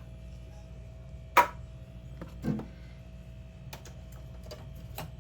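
Food containers and items being handled and set down while a mini fridge is emptied: one sharp knock about a second and a half in, a duller thump a second later, then a few light clicks and taps.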